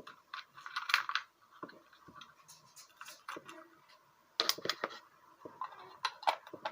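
Irregular small clicks, taps and rustles of a sewing kit's thread reels and needles being picked through and handled, with a louder cluster of clicks about four and a half seconds in.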